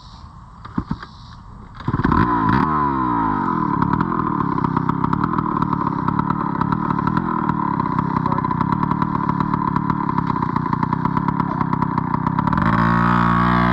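Dirt bike engine starting about two seconds in and revving up and down before settling into a steady run. It revs up again near the end.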